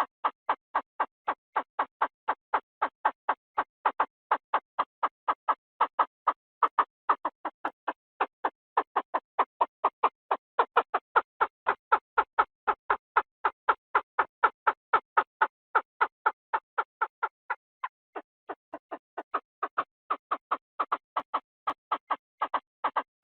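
A game bird of the quail/francolin kind, sold as a นกกระทาทุ่ง lure call, calling in a fast, unbroken series of short, clipped notes, about three to four a second, dipping slightly in loudness past the middle.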